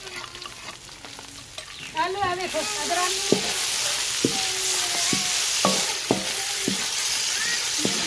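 Ginger paste and browned onions sizzling in hot oil in an aluminium karahi, the sizzle jumping up loudly about two and a half seconds in as stirring begins. A wooden spoon knocks and scrapes against the pan about seven times.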